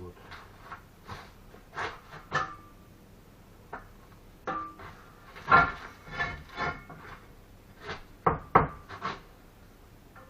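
Bricklaying work: a dozen or so irregular taps and scrapes of a steel trowel on brick and mortar as bricks are set and tapped down. A few of the strikes ring briefly.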